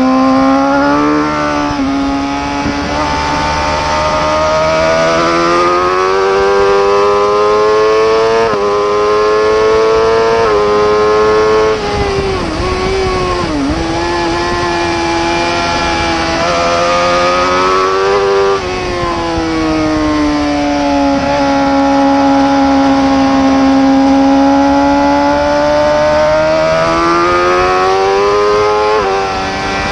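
Superbike racing motorcycle engine at high revs, its pitch climbing through several quick upshifts. Around the middle it drops sharply in a series of blips as the bike brakes and downshifts, then pulls up through the gears again in a long rising sweep.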